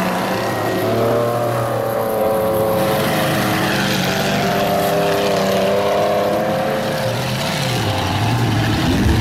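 Engine of a modified off-road 4x4 race vehicle running hard at high revs while it climbs a dirt track, its pitch rising and falling.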